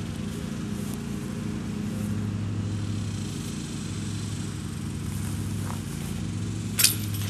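Steady low hum of an engine running. Near the end comes one sharp clack.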